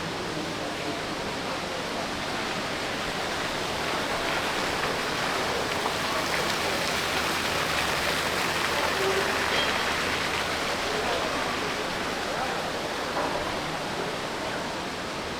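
Steady wash of busy shopping-mall ambience: many indistinct voices blending into a noisy hum, swelling a little midway.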